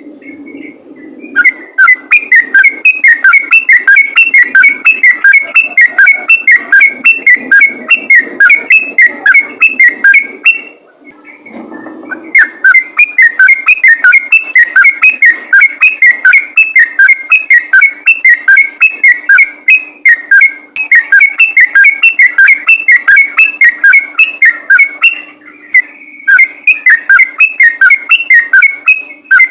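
Yellow-vented bulbul (trucukan) singing a rapid, unbroken chattering song of quick whistled notes. It is very loud and distorted, with short pauses about eleven seconds and twenty-six seconds in, over a faint steady hum.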